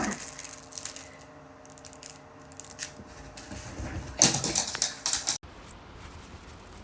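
A small dog moving about, making scattered light clicks and rustling, with a louder burst of rustling and knocks about four seconds in that cuts off suddenly; a faint steady hum underneath.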